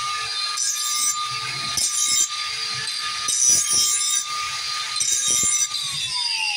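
Power grinder running with a steady whine while a steel mower blade is pressed against it in four short grinding passes to sharpen the edge. Near the end the grinder is switched off and its whine falls in pitch as it spins down.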